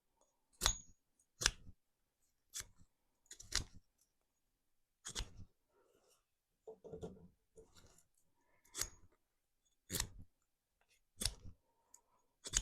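A sharp axe shaving and whittling a small wooden peg: about nine short cutting strikes at uneven gaps, roughly one a second.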